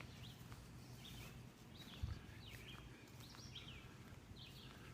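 Faint songbirds chirping in short, repeated high notes, with a single low thump about two seconds in.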